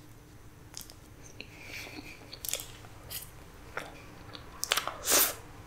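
Mouth sounds of eating black forest cake from a spoon: soft chewing with scattered wet smacks and clicks, the loudest one about five seconds in.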